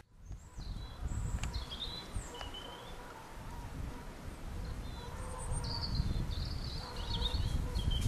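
Songbirds singing several short, warbling phrases, over low rustling noise.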